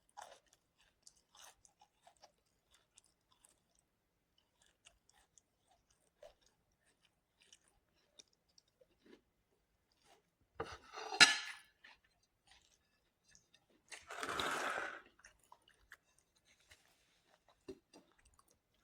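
Close-miked eating: quiet chewing with small wet mouth clicks, a loud sharp crunch a little past the middle, and a second noisy burst lasting about a second a few seconds later.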